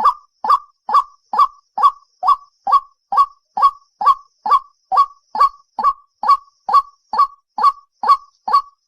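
White-breasted waterhen calling, one short hoarse note repeated at a very even pace, about two and a half calls a second.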